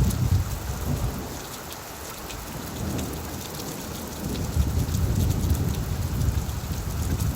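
Steady rain falling on leaves, with many single drops tapping, over a low rumble that dies away about a second in and swells back after about four seconds.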